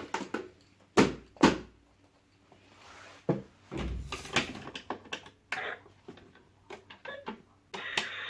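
Plastic clacks and knocks from a toy washing machine being handled with a screwdriver, with two sharp knocks about a second in and scattered clicks after. Near the end a steady whirring starts up.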